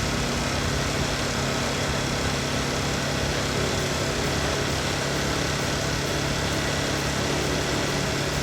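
A 1988 Kawasaki Eliminator 250SE's parallel-twin engine idling steadily.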